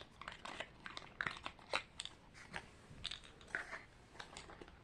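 Faint, irregular clicks and crinkles of small plastic toy parts and packaging being handled: a miniature toy microwave and its tray being put back into its small box.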